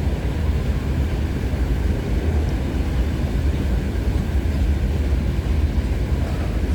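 Steady rumble of a long CN freight train's cars rolling past, wheels running on the rails.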